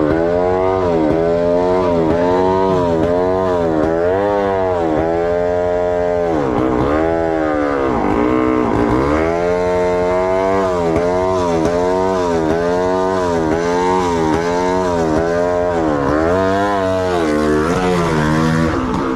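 Dirt bike engine running loud and continuously, its pitch rising and falling again and again, about once a second with a few longer swells, as the throttle is opened and closed.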